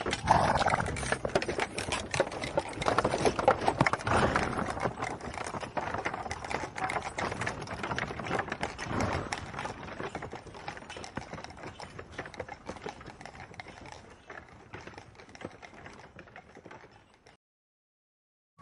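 A horse grazing: a busy run of crisp crunching and tearing as it crops and chews grass. The sound fades over the second half and cuts off shortly before the end.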